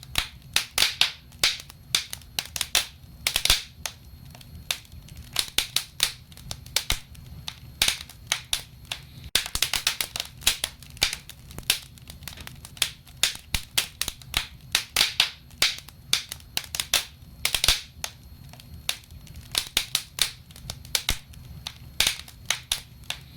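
Wood fire in a fireplace crackling: dense, irregular sharp pops and snaps, several a second, over a steady low rumble of the flames.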